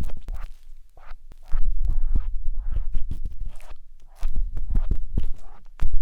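Ear-cleaning tool scratching and rubbing inside the silicone ear of a 3Dio binaural microphone. The close, irregular strokes come in short clusters with deep thumps, and there are quieter pauses in between.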